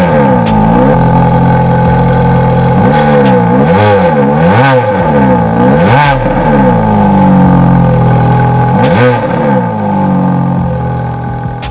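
Ferrari F430's naturally aspirated 4.3-litre V8 revved in a series of quick blips from idle, each rising and falling, with a steadier stretch of engine sound after the middle and a last blip about three-quarters of the way through. The sound then fades away near the end.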